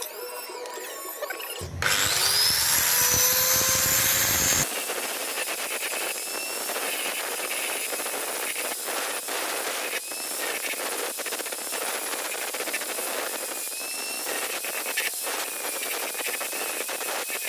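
An electric power tool spins up with a rising whine a couple of seconds in, then runs steadily with a wavering pitch and a rough grinding texture, as when it is worked against the rusty knife steel.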